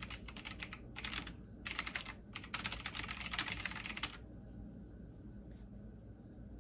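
Computer keyboard typing in several quick bursts, stopping about four seconds in.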